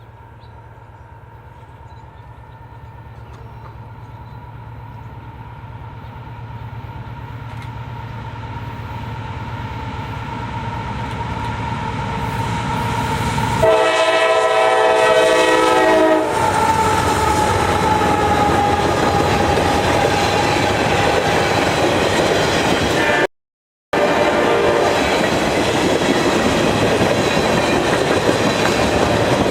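A train approaching and growing steadily louder, sounding one horn blast of about two and a half seconds, then passing close by with a loud steady rumble and clatter of wheels on rail. The audio drops out completely for about half a second during the pass.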